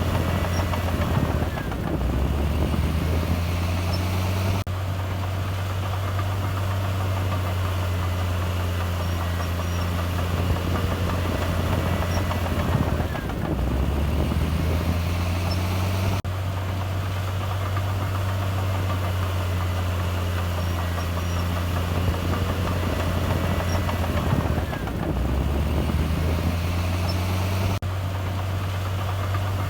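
Komatsu D58E bulldozer's diesel engine running steadily, its low note dipping briefly and recovering three times, about every twelve seconds.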